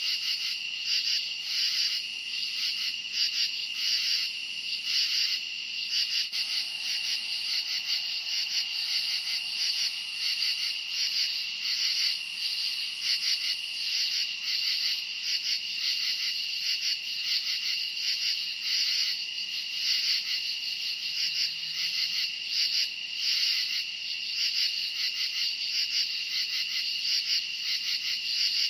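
A dense chorus of crickets chirping: a steady, high trill that pulses rapidly and evenly.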